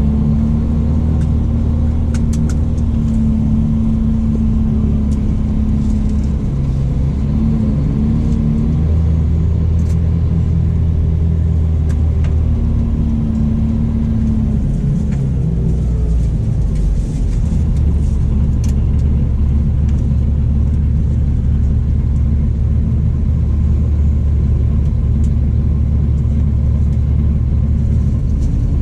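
Scania coach engine running with a steady low rumble, its tone shifting a few times.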